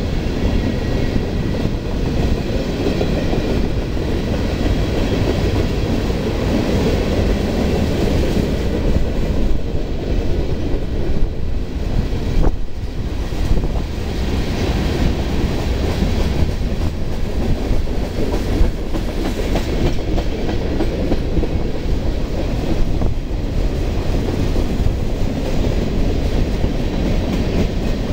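Freight train cars rolling past: a steady rumble of steel wheels on the rails with clickety-clack over the rail joints.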